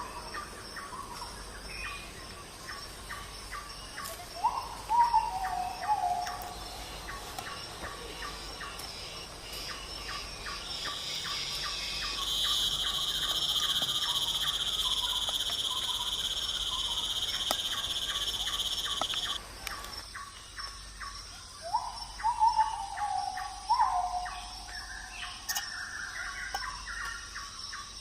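Night forest ambience: insects chirp in a steady fast rhythm, and a loud insect buzz holds for about seven seconds in the middle. A few short falling calls from a night animal come near the start and again near the end.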